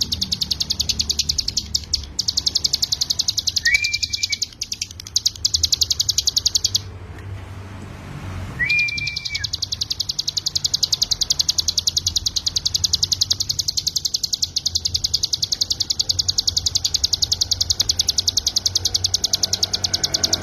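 Ciblek gunung (mountain prinia) singing a long, very fast, high-pitched trill in its full 'ngebren' style. The trill breaks off for about two seconds a third of the way in, and two short lower whistled notes come before and after the break.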